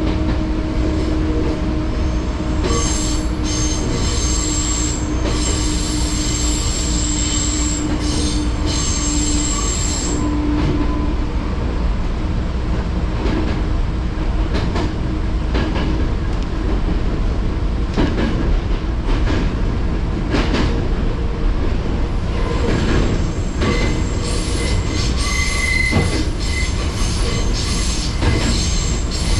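Fujikyuko Line train running along the track, a steady rumble of wheels on rail with occasional clicks. High-pitched wheel squeal sets in from about 3 to 10 seconds in and again from about 23 seconds to the end, typical of the wheel flanges grinding through curves.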